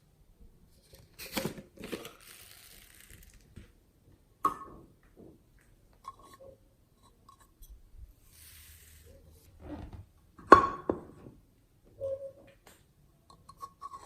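Slime being handled and mixed by hand: a string of short sticky, crackly squishes and pops at irregular moments, the loudest about ten and a half seconds in.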